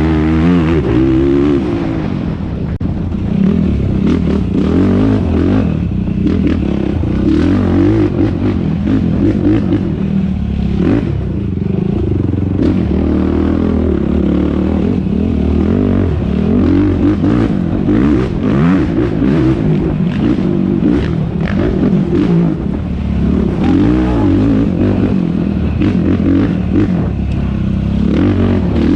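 Yamaha YFZ450R quad's single-cylinder four-stroke engine running hard in a race, revving up and down over and over with throttle and gear changes, along with scattered knocks and clatter from the quad over rough ground.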